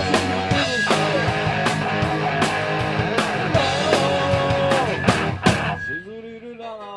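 Rock band music with drum kit and electric guitar. About five and a half seconds in, the drums stop and a few held, wavering notes ring on more quietly.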